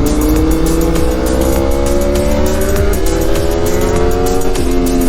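Aprilia Tuono V4's engine pulling under load, its pitch climbing steadily for about four and a half seconds and then dropping briefly near the end, as at a gear change, over steady wind noise.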